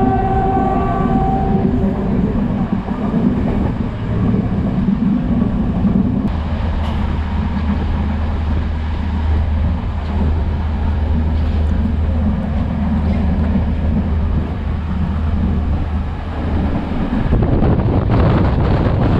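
A Class S13 DMU train running, with a horn note sounding for about the first two seconds and then fading. Steady running noise follows, with a low drone through the middle, and a louder rushing noise builds up near the end.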